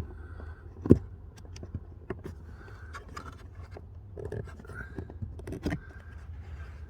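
Plastic dash trim and cabin filter housing in a BMW F30 footwell being worked loose by hand: scattered clicks, scrapes and small knocks, with one sharp knock about a second in.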